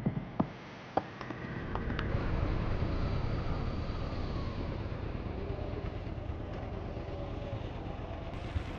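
Motorcycle engine running steadily with a low rumble, after a few sharp clicks and knocks in the first couple of seconds.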